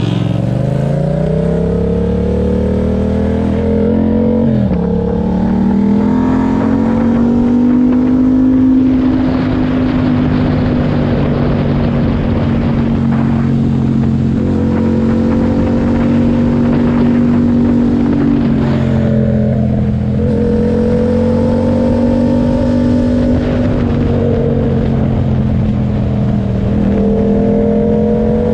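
Yamaha MT-07's parallel-twin engine through an SC Project exhaust with dB killer, revving up hard near the start, dropping in pitch at an upshift about five seconds in, then holding a steady note at cruising speed with two brief throttle dips later on.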